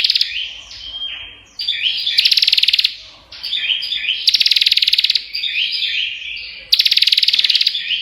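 Prinia (prenjak) calling without pause: loud bursts of very rapid ticking trills, each about a second long, four times, alternating with quick chattering notes.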